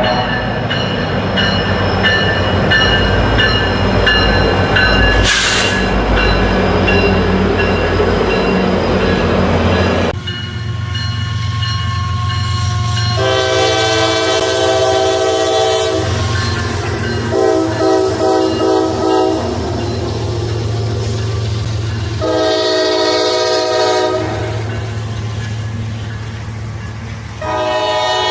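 Locomotive air horns sounding a series of blasts of a chord over the low rumble and wheel noise of passing trains, in several short cuts.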